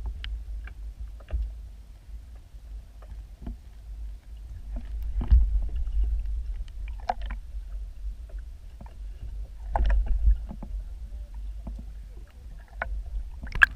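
Muffled water movement heard underwater: a low rumble that swells about five and ten seconds in, with scattered small clicks and knocks.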